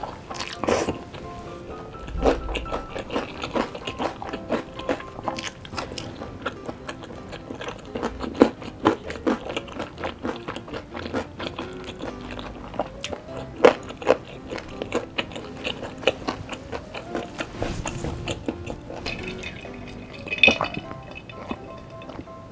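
Close-up eating sounds of sticky, sauce-coated Korean fried chicken (yangnyeom chicken) being bitten and chewed off a drumstick: many short wet smacks and crunchy clicks. Near the end, a slurp through a straw.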